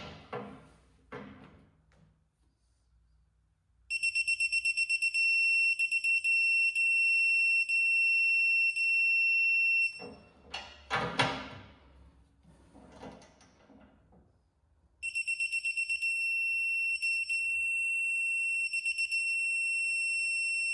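Electronic beeper sounding a steady high-pitched tone twice, about six seconds each time, typical of a digital torque wrench signalling that the set torque is reached while bolts are tightened. Knocks and rattles of tool handling between the two tones.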